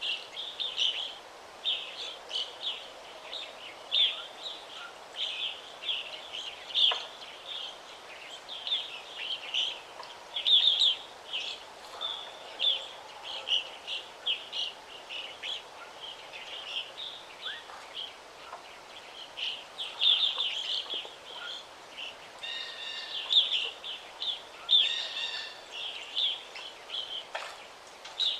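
Several birds singing and chirping continuously in quick short notes, over a steady background hiss.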